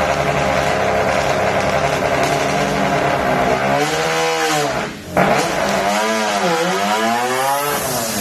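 Mazda RX-7's twin-turbo 26B four-rotor rotary engine running at a steady speed, then revving up and falling away several times from about three and a half seconds in, with a brief drop in sound about five seconds in.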